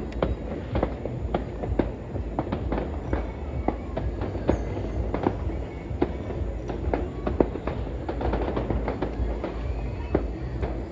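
Fireworks going off, a dense run of irregular bangs and pops over a continuous low rumble.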